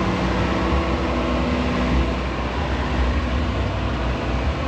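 Steady outdoor background noise with a heavy low rumble, and faint distant voices here and there.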